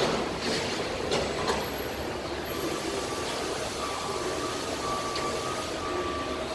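Steady hiss of vehicle traffic on a wet road in light rain. From about two and a half seconds in, a faint steady whine comes and goes.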